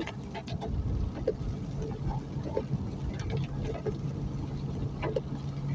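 Vehicle running on the road: a steady low engine hum with road and wind rumble, and a few short clicks over it.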